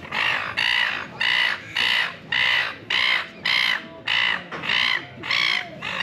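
A bird giving short, harsh crow-like calls over and over, about two calls a second in a steady series.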